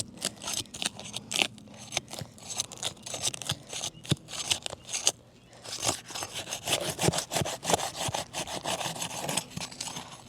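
Roof shingle being pried and worked loose with a bar: repeated irregular scraping and rubbing with sharp knocks, pausing briefly about halfway through.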